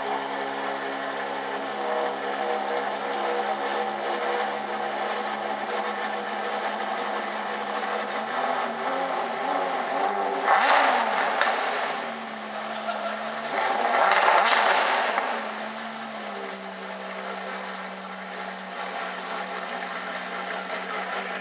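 Aston Martin One-77's 7.3-litre V12 idling steadily, revved twice about halfway through, each rev rising sharply and dropping back, before settling back to a steady idle.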